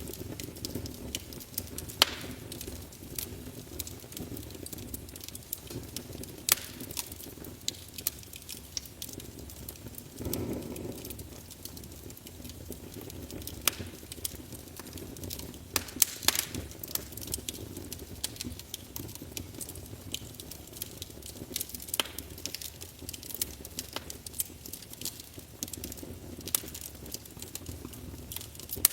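Wood fire burning in a fireplace, crackling with irregular sharp pops over a low, steady rumble of flame. There is a brief louder swell of the rumble about ten seconds in.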